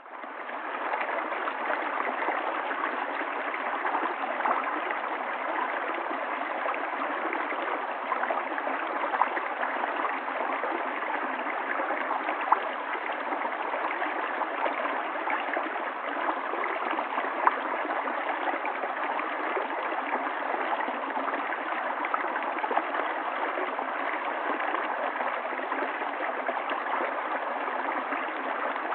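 River water flowing over stones, a steady babbling rush with small gurgles and splashes over it.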